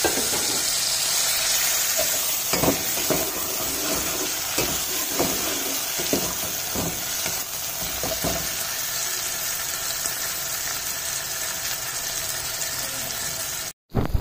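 Onions, tomatoes and green chilies sizzling in hot oil in a metal pot, with a steel ladle clinking and scraping against the pot as it stirs between about two and eight seconds in. The sound cuts out suddenly for a moment near the end.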